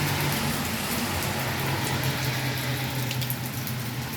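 Heavy rain falling steadily, a dense hiss with scattered drop ticks, over a low steady hum from a running motor.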